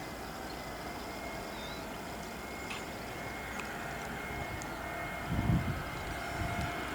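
Jet airliner engines whining with steady high tones over a broad noise, the level slowly building. About five seconds in, an uneven low rumble comes in.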